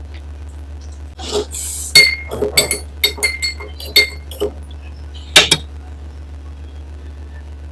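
Tableware clinking: a quick run of light, ringing clinks over about three seconds, then one louder clink, with a short rustling hiss just before them.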